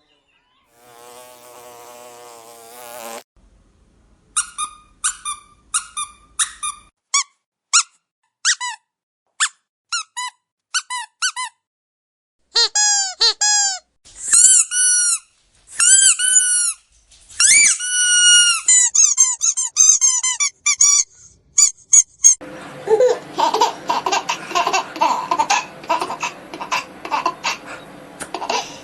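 A short buzz, then a run of short, high squeaks from a squeezed dog squeaky toy, about a dozen, followed by longer squeaks that rise and fall in pitch. A dense, busy mix of noise fills the last six seconds.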